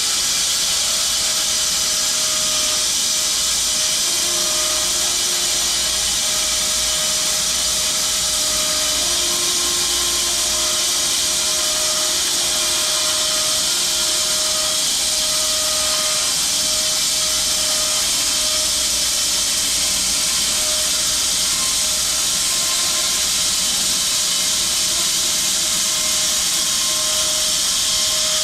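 Home-built 6 ft wide bandsaw mill running with its band blade cutting a slab off a log: a steady hiss with a steady whine underneath.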